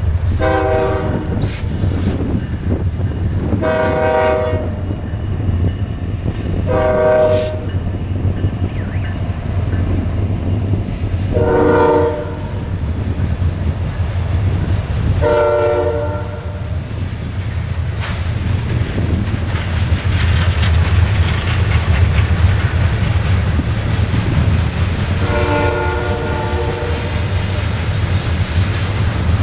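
Diesel freight locomotive sounding its multi-tone air horn six times in separate blasts over a steady low engine and train rumble. A rushing wash of wheel and rail noise swells briefly about two-thirds of the way through.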